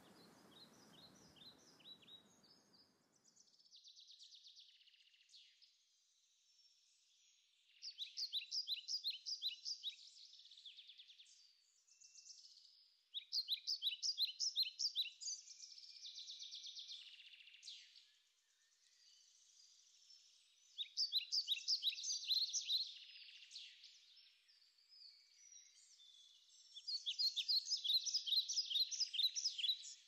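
Birdsong: four loud runs of rapid, high repeated chirps, each lasting two to three seconds, with softer twittering between them.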